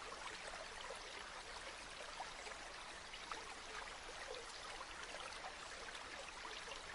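River water flowing steadily, a constant rush dotted with small trickling and bubbling sounds.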